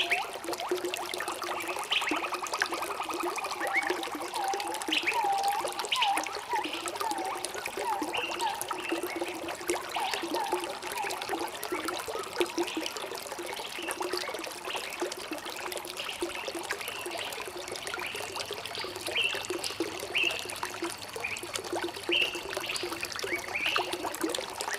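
Flowing water trickling and pouring steadily, with birds chirping and calling throughout in short whistled notes, including a rapid trill about a second in.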